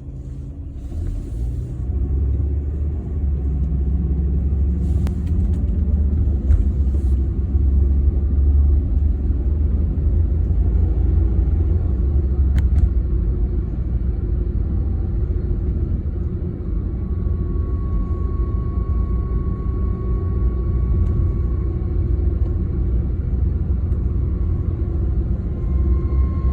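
Failing driveshaft center support bearing on a BMW E36 with 220k miles: a loud, heavy, steady rumble while the car is under way, the horrible noise of a worn-out bearing. About two-thirds of the way in, a steady high whine joins it.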